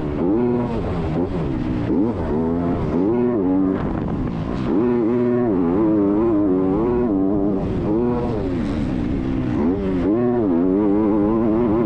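Motocross bike engine at race pace, its pitch climbing and dropping again and again as the throttle is opened and closed.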